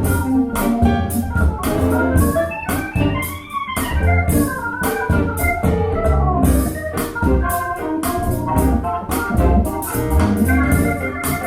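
Electronic keyboard music with organ-like chords and a steady drum beat, played back through a pair of JBL Studio 590 floor-standing speakers with compression horn tweeters and recorded in the room. A short rising run of notes comes a few seconds in.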